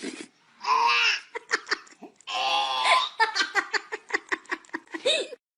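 Laughter in quick, broken bursts of short pulses, with a longer held stretch about two and a half seconds in.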